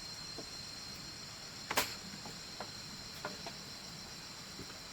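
Steady high-pitched chorus of crickets and other insects, with a handful of light knocks and taps from bamboo pieces being handled. The loudest knock comes about two seconds in.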